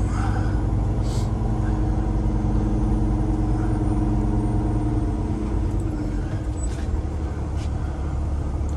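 Cummins X15 diesel engine of a Peterbilt 389 heavy-haul truck running on the road; about six seconds in its note changes and settles lower.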